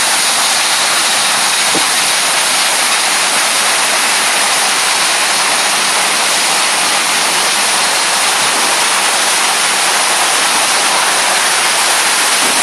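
Water pouring down a large man-made waterfall fountain wall: a loud, steady rush, bright and hissy, without a break.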